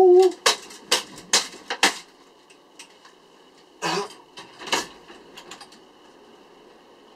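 A run of sharp knocks: four in quick succession over about a second and a half, then two more a couple of seconds later, followed by a few faint ticks.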